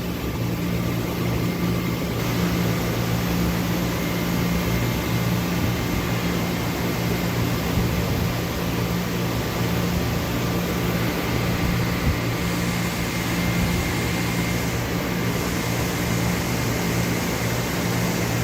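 Doosan Puma MX1600ST CNC turning and milling center running under power: a steady machine hum, with a thin high whine that comes in about four seconds in.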